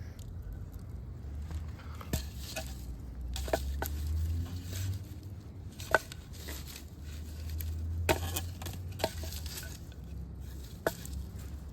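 Campfire cooking: scattered sharp clicks and pops, about eight in all, over a low steady rumble.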